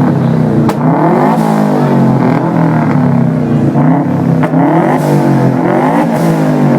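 Tuned Subaru Impreza's flat-four engine revved repeatedly through its exhaust, the pitch climbing and dropping about once a second. Two sharp cracks stand out, about a second in and again past the middle, typical of exhaust pops on a tuned car.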